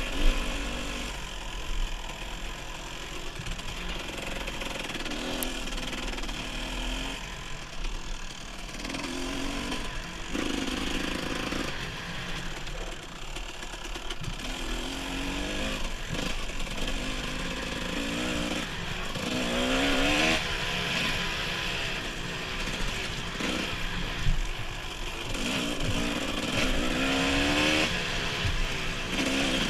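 Dirt bike engine on a trail ride, its pitch repeatedly rising and dropping back as the throttle opens and closes, over a steady rushing noise.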